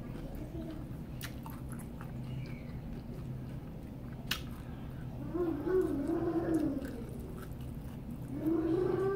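Close-up mouth sounds of a person chewing a mouthful of taco, with a few sharp wet clicks. Twice, past halfway and again near the end, comes a drawn-out hum of the voice, the 'mmm' of someone enjoying the food.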